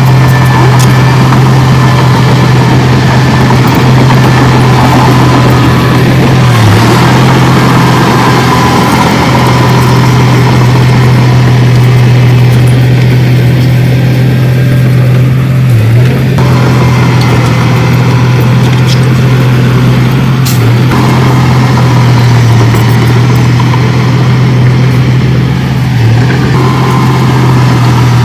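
Loud, steady running of a heavy diesel earthmoving machine's engine, its low hum briefly dipping about four times.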